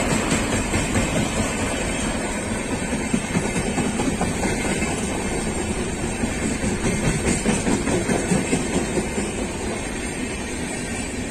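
A passenger train's LHB coaches rushing past at high speed, with a loud roar and wheels clattering over the rail joints.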